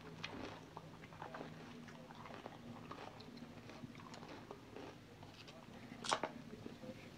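Faint close-up eating: biting and chewing tortilla chips with cheese dip, with small scattered clicks from a plastic container and spoon. One louder sharp crackle about six seconds in.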